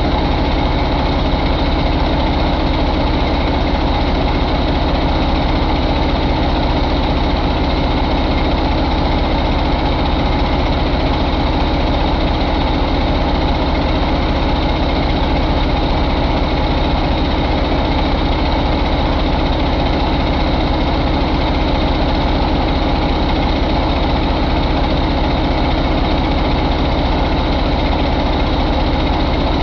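2013 International MaxxForce 11 inline-six diesel engine idling steadily.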